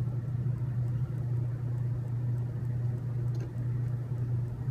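A steady low hum with no change in pitch or level, and one faint click about three and a half seconds in.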